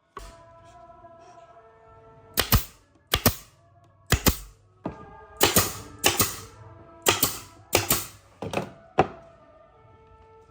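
About a dozen sharp knocks on wood at irregular spacing, some in quick pairs, over steady background music.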